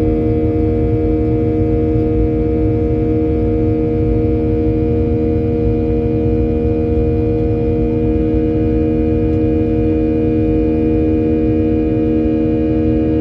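Boeing 737-800's CFM56-7B turbofan engines heard from inside the cabin during the climb after takeoff: a steady drone of several held tones over a low rumble.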